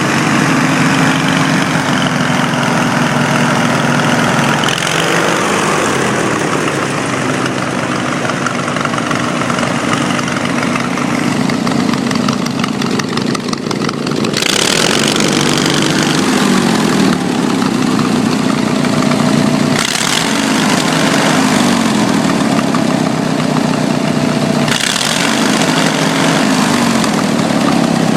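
18 hp Briggs & Stratton twin-cylinder engine running, its speed shifting up and down several times.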